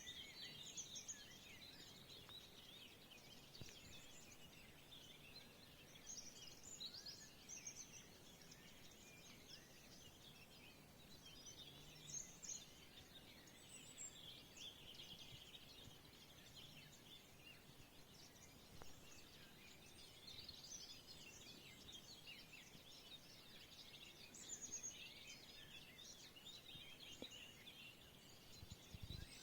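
Faint chorus of many small birds chirping and trilling over one another, without a break.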